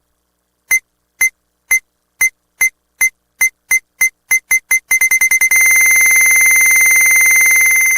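Pachinko machine sound effect: a high electronic beep repeating faster and faster, about a dozen times, until it runs together into one long steady tone.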